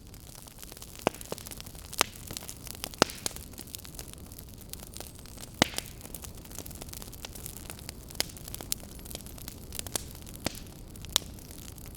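Fireplace fire crackling: a steady hiss with many small crackles and a handful of sharp, louder pops scattered through.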